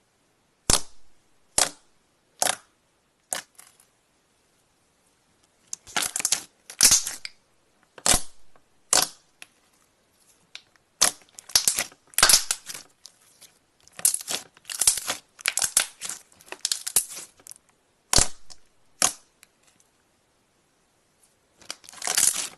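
Slime being squeezed and stretched by hand, giving sharp pops and crackles. First come single pops about a second apart, then longer crackling clusters.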